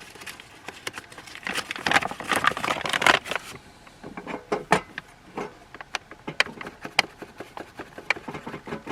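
A flour package being opened and handled: a few seconds of crinkling and rustling, then a string of scattered clicks and taps.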